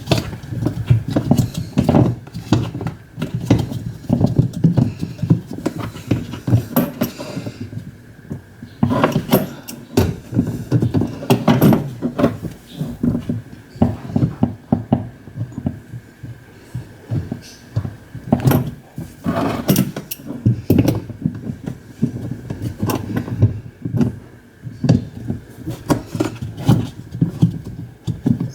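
Irregular knocking and clattering of hand work on a washing machine's parts, many short knocks in uneven bunches, with a faint steady high tone underneath.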